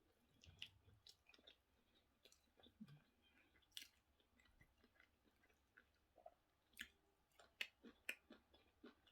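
Faint chewing: scattered soft, irregular mouth clicks and smacks of someone eating soft plantain with sauce.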